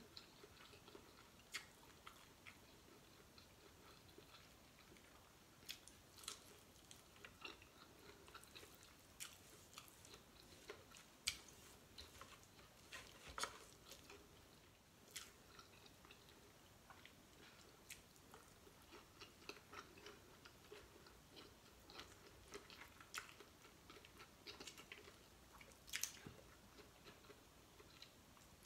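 Faint chewing of a person eating shrimp and crab with the hands: scattered soft wet mouth clicks and smacks, with a few sharper, louder clicks from peeling shells.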